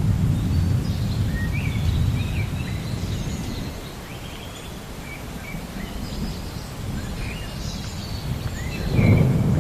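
Low rumble of thunder that dies away around the middle and swells again loudly near the end, with small birds chirping throughout.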